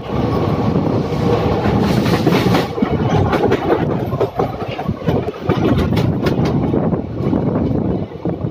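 Passenger train running through a station at speed, heard from on board: a steady rumble of steel wheels on the rails, with a run of sharp clickety-clack beats in the middle as the wheels pass over the track.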